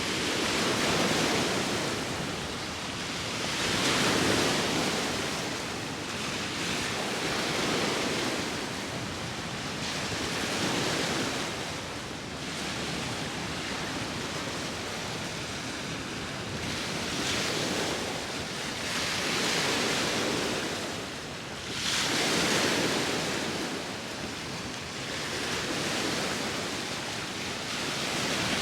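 Ocean surf: waves rushing in as a continuous hiss that swells and eases every few seconds, with wind blowing.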